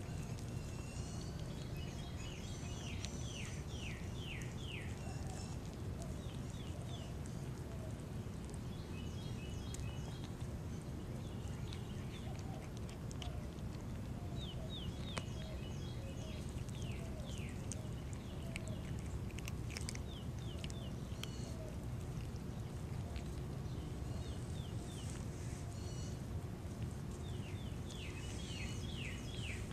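Small birds chirping in the background, in runs of quick downward-sweeping notes that come and go every few seconds, over a steady low rumble of outdoor background noise.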